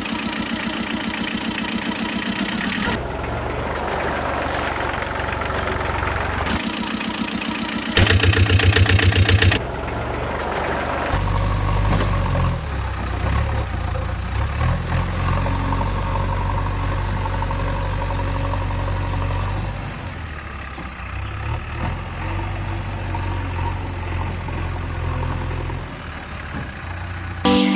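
Vehicle engine sound running steadily, with a louder burst about eight seconds in and a low hum that shifts in pitch in the second half.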